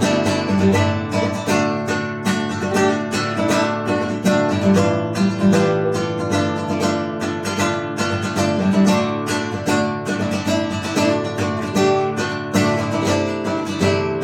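Acoustic guitar strummed steadily in an improvised instrumental passage, with even strokes about four a second over ringing chords.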